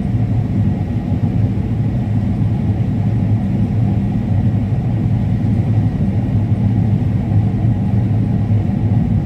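Combine harvester running steadily under load while cutting corn: a loud, even, low engine drone with the hum of the threshing machinery.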